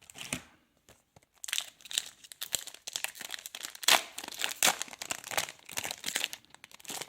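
A trading card pack wrapper crinkling and tearing as it is ripped open. A fast, irregular run of crackles starts about a second and a half in and is loudest about four seconds in.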